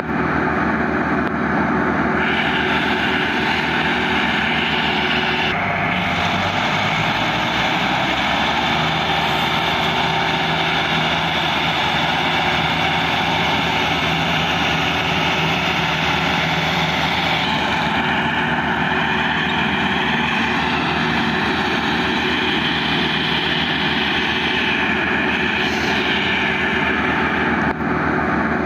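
Massey Ferguson 375 tractor's diesel engine running steadily under load, pulling a loaded sugar cane trolley.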